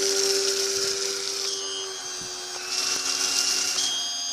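Pressure washer running with a foam cannon attached, spraying foam with a steady hiss over a whining motor tone. About two seconds in the tone shifts pitch, and the hiss thins out twice, briefly.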